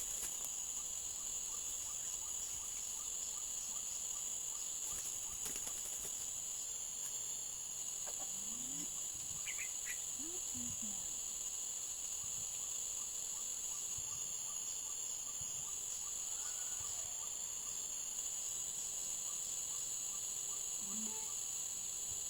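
A steady, high-pitched chorus of insects that never lets up. A few faint, short low calls sound about halfway through.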